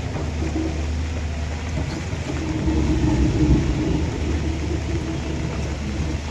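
A motor vehicle's engine running close by as a steady low hum, growing louder for a moment about three seconds in.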